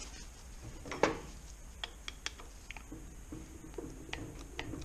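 Light metallic clinks and taps of hand tools working a gearbox part loose on its shaft, with one sharper knock about a second in.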